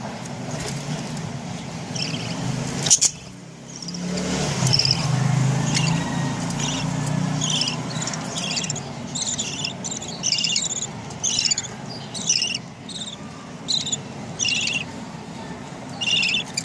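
Budgerigars chirping: many short, high chirps in quick succession, coming thicker from about four seconds in, over a steady low hum.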